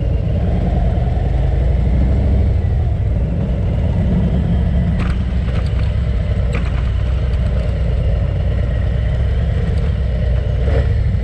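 Harley-Davidson Ultra Limited motorcycle's V-twin engine running steadily while riding, a deep continuous rumble. A few short sharp ticks come about halfway through and again near the end.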